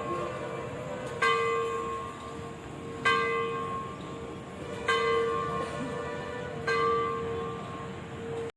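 A large temple bell struck slowly and evenly, about every two seconds, four times. Each stroke rings on with a deep hum under its overtones. The sound cuts off suddenly near the end.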